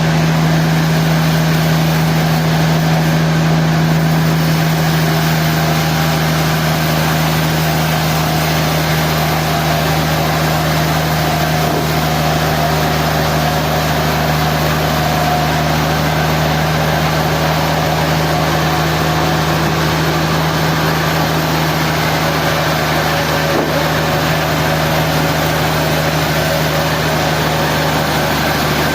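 Sawmill machinery running steadily: a constant machine hum with a strong low tone that holds unchanged throughout.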